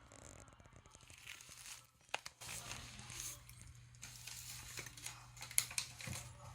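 Irregular crinkling and crackling with sharp clicks, loudest at two moments about 2 and 5.5 seconds in, over a steady low hum.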